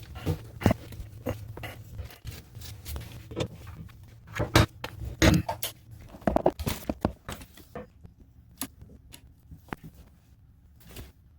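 Irregular clicks, taps and knocks of hard objects being handled, thinning out over the last few seconds, over a steady low hum.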